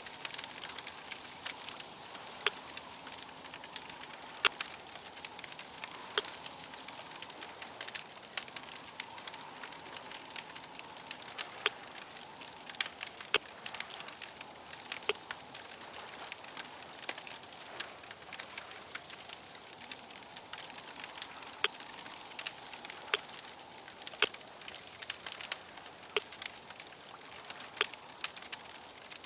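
Crackling fire: a steady hiss with many irregular sharp pops and snaps, several a second.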